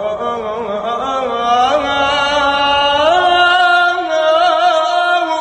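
A slow, mournful Arabic song: a long melodic line is drawn out in held, wavering notes that glide slowly between pitches, with no words sung.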